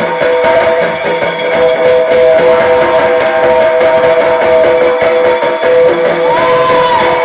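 Instrumental passage of Marathi folk music: steady held notes over continuous jingling, rattling percussion, with a short rising-and-falling tone near the end.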